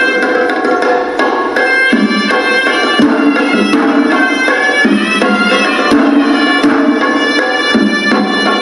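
Hewisi, the Sri Lankan temple drum ensemble, playing: drums struck in a fast, dense rhythm under a continuous reed-pipe (horanewa) melody.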